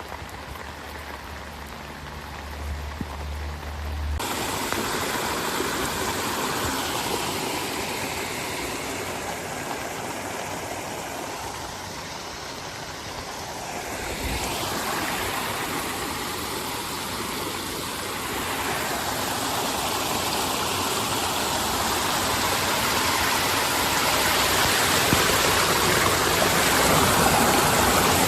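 Heavy rain falling, with a low hum underneath. About four seconds in it cuts to the steady rush of fast-flowing floodwater, which grows louder toward the end.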